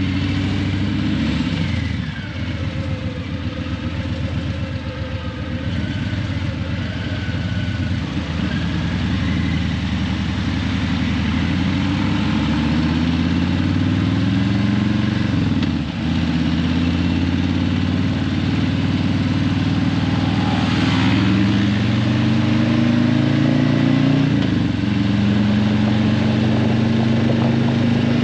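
Harley-Davidson Breakout 117's Milwaukee-Eight 117 V-twin running through Vance & Hines Eliminator 300 slip-on mufflers while riding in traffic. The engine pulls up in pitch several times, with a short drop about halfway through and again near the end, as the rider shifts and rolls the throttle.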